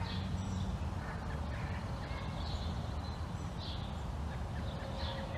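Birds calling: short high calls repeating roughly every second, over a steady low rumble.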